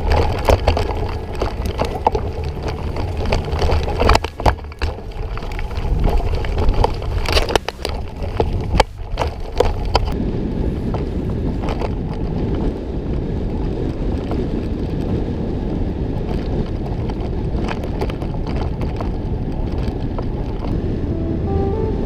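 Riding on a rough dirt trail recorded on an on-bike microphone: rattling and sharp knocks over the first ten seconds or so, then a steady low rumble of wind on the microphone.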